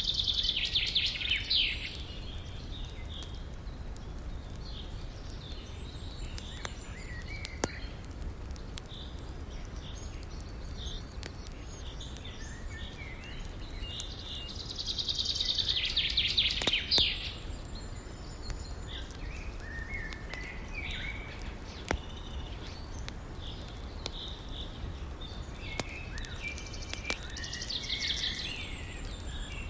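Outdoor ambience: a bird sings the same trilled song three times, about thirteen seconds apart, with scattered short chirps from other birds in between. Beneath it runs a steady low rush, broken by a few sharp clicks.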